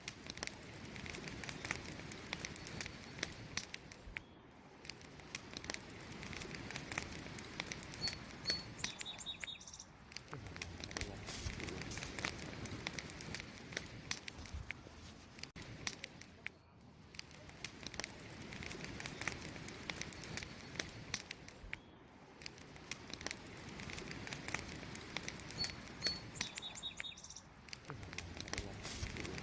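Wood campfire crackling, with constant sharp pops and snaps over a soft hiss. A bird gives a couple of short high chirps about eight seconds in, and again near the end.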